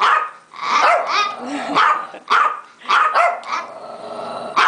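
Puppy barking, a string of short sharp barks, roughly two a second.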